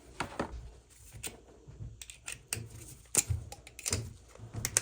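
Irregular clicks and light metallic knocks of hand tools and parts being handled on an oil burner.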